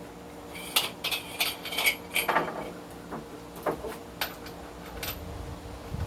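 Irregular metallic clinks and scrapes from a steel meat cleaver and metal tools being handled, with a few sharp knocks, over a faint steady hum.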